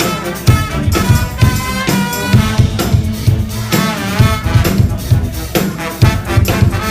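Live brass band playing an upbeat tune, with trumpets and trombones over a steady drum kit beat.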